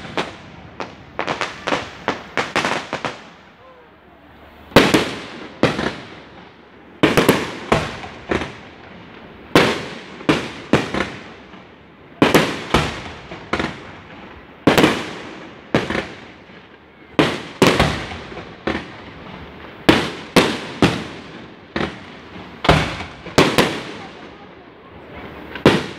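Aerial firework shells bursting in a continuous barrage: a quick run of bangs in the first few seconds, then loud booms about once a second, each trailing off.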